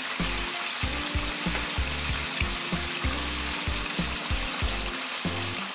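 Flour-coated chicken pieces deep-frying in two pots of hot oil, with a steady sizzle of bubbling oil.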